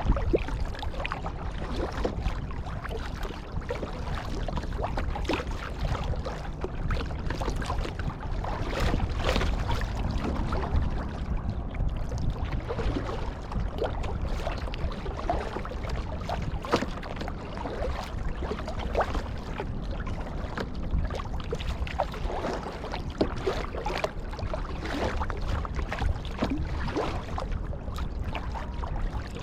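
Kayak paddle blades dipping and splashing in seawater as the boat is paddled along, with water lapping and trickling throughout over a steady low rumble.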